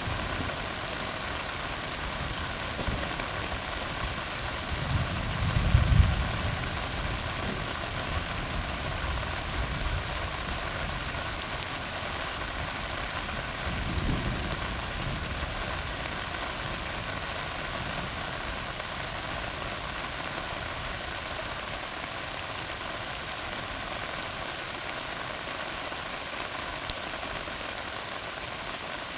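Steady rain falling on a tar road. A low rumble of thunder swells about five seconds in and peaks around six seconds, and a weaker rumble follows around fourteen seconds.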